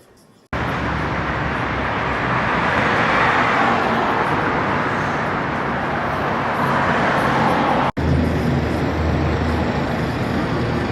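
City street traffic with cars driving past, starting abruptly about half a second in and briefly cut off near eight seconds before carrying on.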